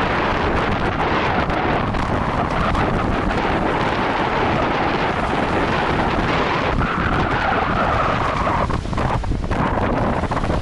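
Strong gusting wind buffeting the microphone: a loud, steady rushing roar.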